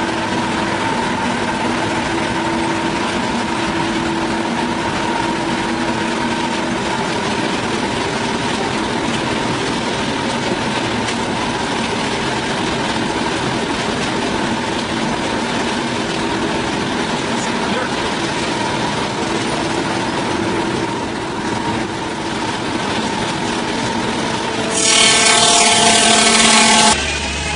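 Wood-cutting machinery running steadily, a dense mechanical noise with a few steady hums. About 25 seconds in, a louder and higher-pitched sound with many overtones lasts about two seconds, then cuts off abruptly.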